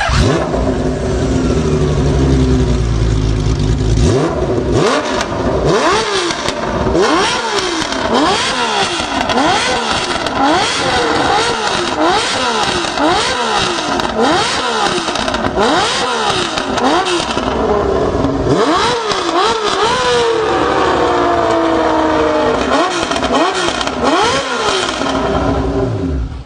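Honda CBX 1050's inline-six engine running steadily for a few seconds, then revved over and over in quick throttle blips, about one a second, each rising and dropping back. Near the end the revs sink in a long, slow fall.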